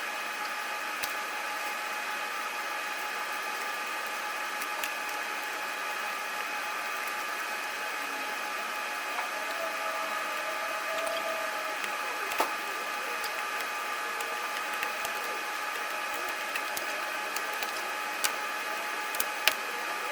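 A steady background whine made of several even tones, with scattered light clicks and taps of plastic parts being handled: door wiring harness connectors and clips being worked loose.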